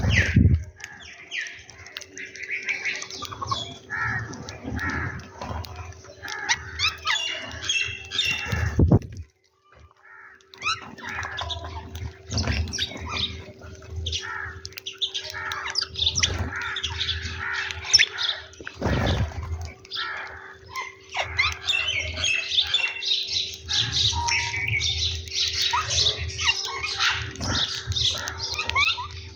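A group of birds chirping and squawking over food, with occasional wing flaps and thumps, and a steady low hum underneath. The sound cuts out briefly about a third of the way in.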